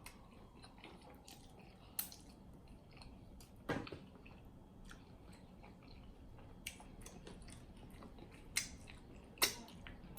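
A person chewing sticky, sauce-coated chicken wings, with a few short wet smacks and clicks of the mouth.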